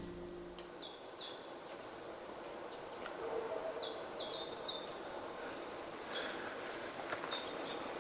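Small songbird calling: several runs of short, high chirps, each falling in pitch, over faint, quiet outdoor background noise.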